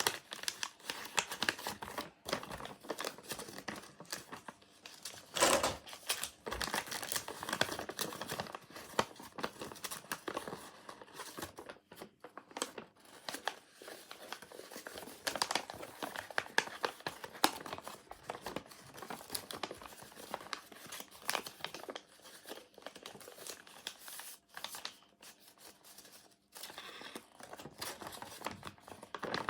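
Paper crinkling and rustling as a sheet is handled and folded into a paper airplane, in irregular crackles.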